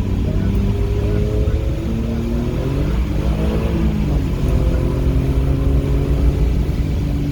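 Car engine under throttle on a wet track. About three seconds in the revs dip and wobble as the driver lifts off after too much gas breaks the rear loose, then they climb again and hold steady as the car is recovered.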